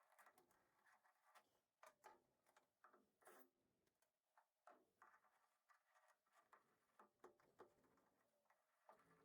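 Near silence with faint, scattered small clicks and ticks, several a second at irregular spacing.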